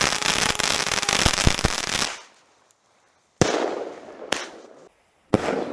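Fireworks: a dense crackling for about two seconds, then, after a pause, two sharp bangs a second apart, each fading out in a hiss, and another bang near the end.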